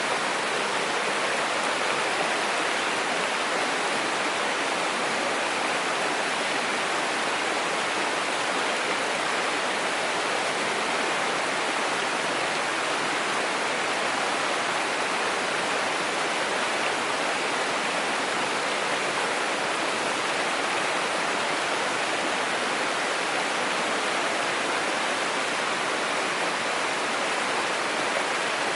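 Mountain stream rushing over rocks: a steady, unbroken hiss of flowing water.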